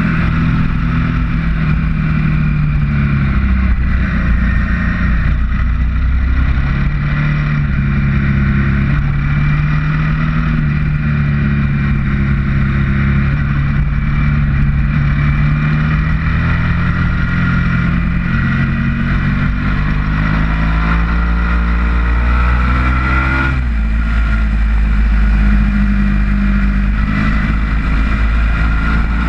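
Ducati V-twin motorcycle engine at track pace, heard from an onboard camera, its pitch rising and falling with throttle through the corners. A long rising rev a little past two-thirds of the way through breaks off suddenly, as at a gear shift, with wind rush on the microphone underneath.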